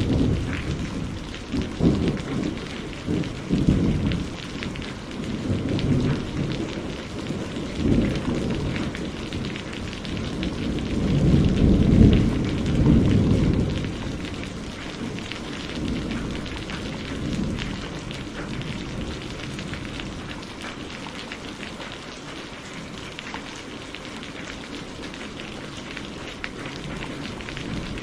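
Steady rain falling in a thunderstorm, with rolling thunder that rumbles repeatedly through the first half, peaking about halfway, then dies away to rain alone.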